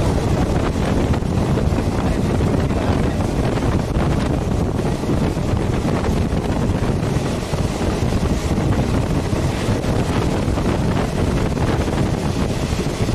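Wind buffeting the microphone at the open door of a moving passenger train, over the steady running rumble of the coach on the rails.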